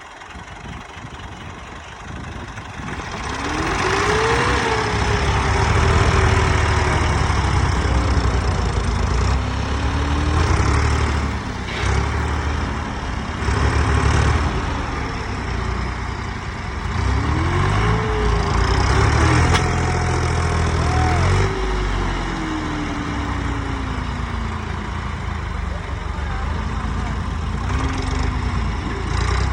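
Tractor engine running under heavy load, its pitch rising and falling again and again as it revs up and eases off.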